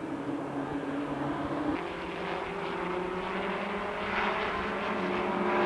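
A field of midget race cars running at low speed under the pace car, several engine notes droning together and growing louder toward the end as the cars come around for the start.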